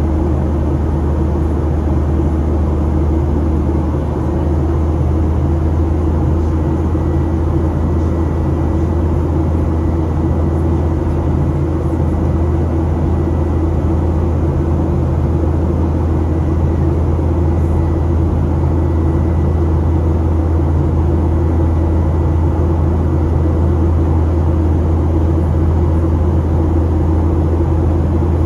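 Steady low drone inside the passenger cabin of a Boeing 737-800 in flight, from its CFM56 jet engines and the airflow past the fuselage.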